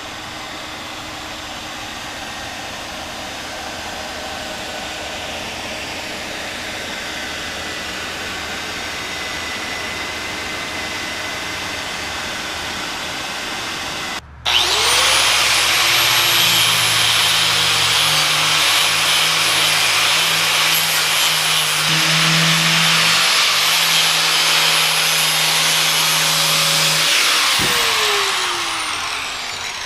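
Steady machine hiss, then, about halfway in after a sudden break, a high-speed electric power tool motor spins up, runs at a high whine for about 13 seconds and winds down near the end.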